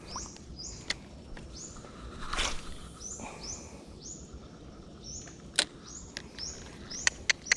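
A bird calling over and over, short high chirps one every half-second or so, over a low outdoor hum, with a few sharp clicks near the end.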